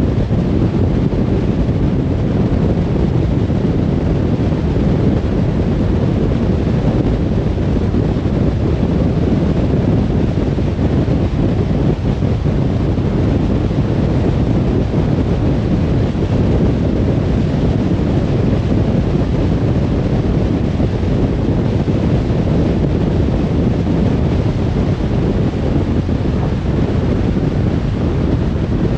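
Steady road and wind noise of a car driving: an unbroken low rumble with no distinct engine note or other event.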